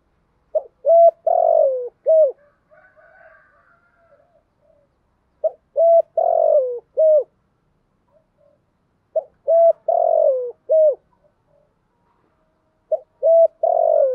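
Spotted dove singing: phrases of short coos, a longer falling coo and a closing short coo, repeated about every four seconds. Faint twittering between the first two phrases.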